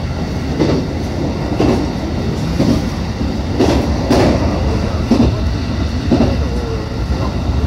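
Running noise of a JR West 221 series electric train heard from inside the car: a steady low rumble, with the wheels clacking over rail joints about once a second.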